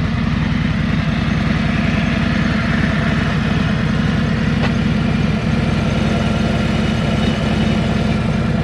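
An engine idling steadily with an even low rumble.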